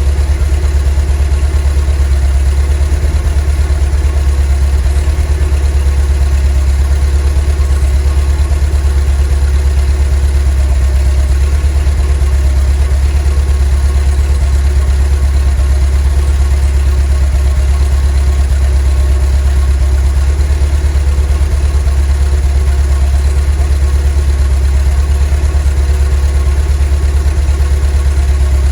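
VW T3 bus's 2.1-litre water-cooled flat-four (Wasserboxer) engine running steadily at a constant speed, a deep even hum with no revving.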